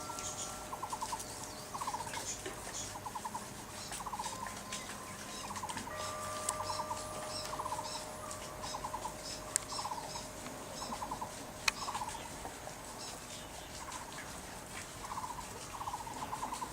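Bird calls: a short, rapid pulsed trill repeated about once a second, with thin high chirps above it and a couple of sharp clicks.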